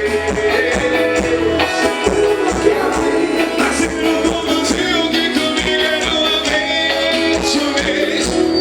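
Live band music with a steady beat, guitar and singing.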